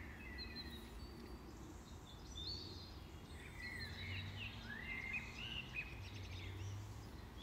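Faint birds chirping in the background, with short rising and falling notes scattered throughout, over a low hum.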